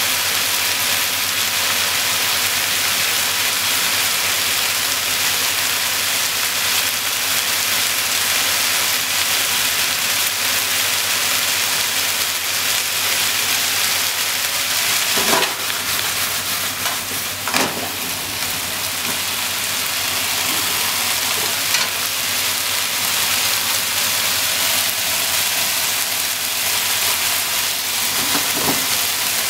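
Potato slices, shimeji mushrooms and minced meat sizzling steadily in a frying pan. A few short sharp clicks fall over the sizzle about halfway through and again near the end.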